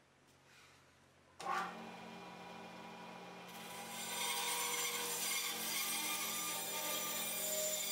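A woodworking power tool starts up suddenly about a second and a half in and runs steadily on oak, growing louder about four seconds in as it works the wood.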